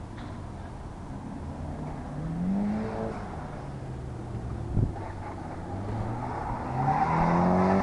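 Turbocharged SR20DET four-cylinder of a Nissan 240SX S13 accelerating hard on an autocross course, its engine note rising in pitch twice, the second run loudest near the end. A short thump is heard about five seconds in.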